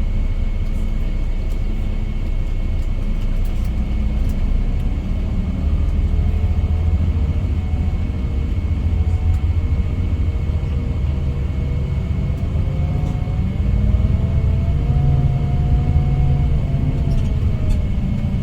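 Scania K410IB coach running at road speed: a steady low engine and road rumble, the engine note rising slightly about two-thirds of the way through, with a faint steady high whine.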